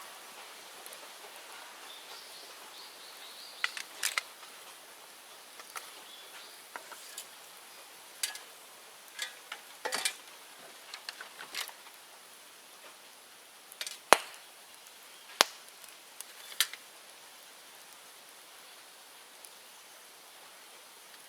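Bamboo bonfire crackling, with sharp, irregular pops scattered over a faint steady hiss; the loudest pop comes about fourteen seconds in, and the pops die away in the last few seconds.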